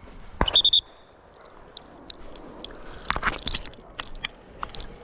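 A short, trilled blast on a dog whistle about half a second in, the loudest sound. It is followed by crunching and rustling as feet and dogs push through dry cover, heaviest about three seconds in.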